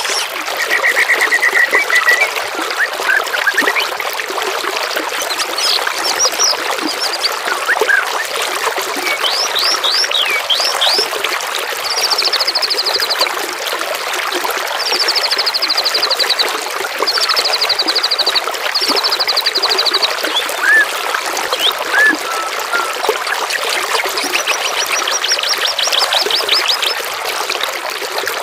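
Steady trickling water with songbirds singing over it: rapid trills about a second long, lower early on and higher from about halfway, with scattered short chirps between them.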